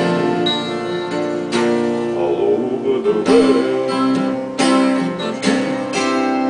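Acoustic guitar strumming slow, ringing chords, one strum every second or so, closing out a song.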